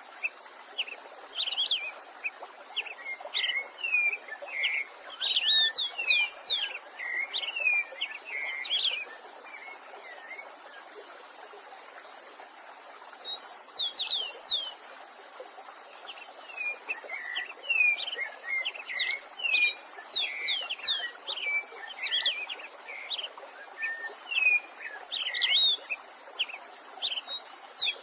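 Songbirds singing in bouts of rapid, sweeping chirps and trills, with short pauses between phrases, over the steady rush of a stream.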